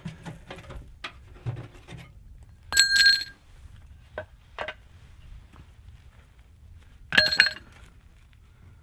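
Metal of a tent wood stove being handled, with ash in it: two loud metallic clanks with a short ring, about three seconds in and again near the end, amid lighter knocks and rattles.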